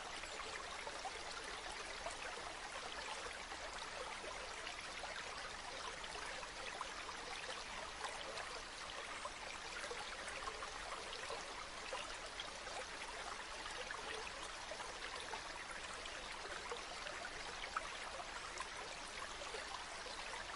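Running spring water trickling and splashing steadily.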